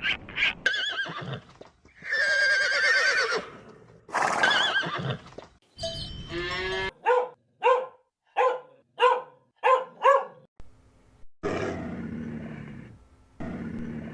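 Horse whinnying: two long, wavering calls. Later comes a run of six short calls about two-thirds of a second apart, from one or more animals.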